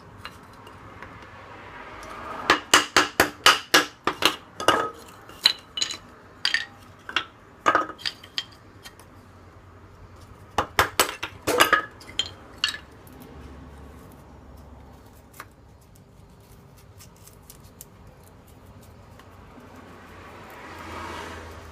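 Light metal pieces clinking and clattering against each other in quick runs of sharp, ringing clicks: a dense run a couple of seconds in, a few more around seven seconds, and another run around eleven to twelve seconds. A soft swell of noise rises near the end.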